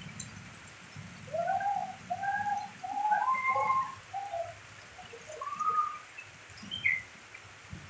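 A bird calling: a quick run of short arched cooing notes, then a few higher calls near the end.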